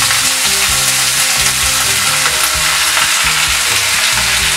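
Chopped octopus pieces sizzling steadily in hot soybean oil in a frying pan, stirred with a spatula.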